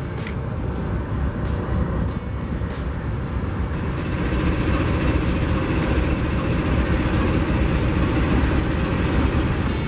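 Diesel-electric locomotives rolling slowly past at close range: a steady low engine rumble mixed with the noise of steel wheels on the rails, growing louder about four seconds in.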